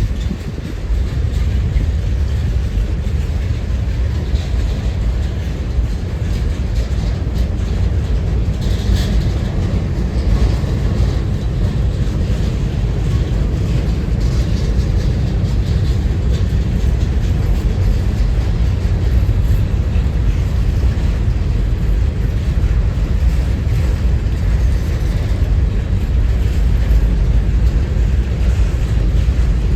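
A train rolling past on the rails, a steady rumble of wheels with some clickety-clack. Strong wind buffets the microphone and adds a deep, steady rumble.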